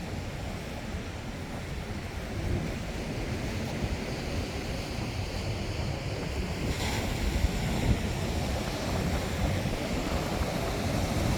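Ocean waves breaking and washing against rocks, a steady surging hiss with a burst of brighter spray about seven seconds in. Wind buffets the microphone, adding a low rumble.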